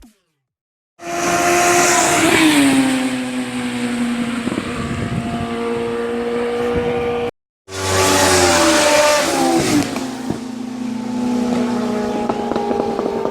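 Sport motorcycle engine running, its pitch dropping then holding steady. The sound starts about a second in, cuts out briefly after about seven seconds, then again falls in pitch and holds steady.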